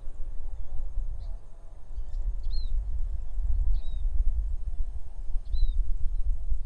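Wind buffeting the microphone in gusts, the loudest sound. Over it a bird repeats a short, high chirp that arches and drops in pitch, three times, about a second or two apart.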